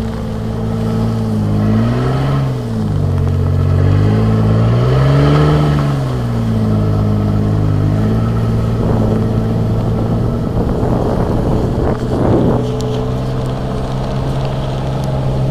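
Mitsubishi Pajero's 3.0-litre V6 engine pulling through snow, revving up and back down twice, then running at a steady pitch. Partway through there is a stretch of rough crackling noise over the engine.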